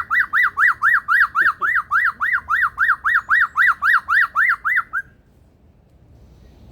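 Male superb lyrebird giving a rapid string of laser-like notes, about four to five a second, each dipping down in pitch and swooping back up. It stops about five seconds in.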